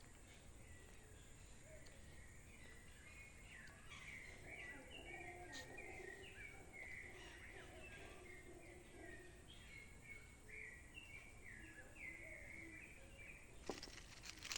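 Faint bird calls: many short, quick chirps in a busy run over a low background hiss, with a few sharp clicks near the end.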